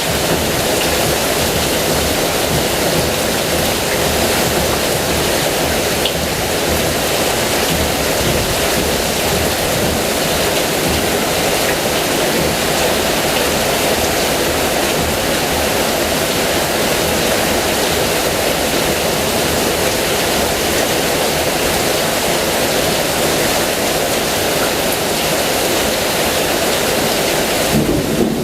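Heavy rain falling, a dense steady hiss. Near the end the sound changes abruptly.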